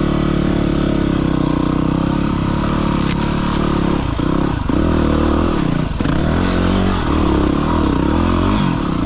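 Single-cylinder dirt bike engine running under load off-road: steady at first, then the revs drop and rise again several times in the second half as the throttle is worked, with a few brief knocks about three seconds in.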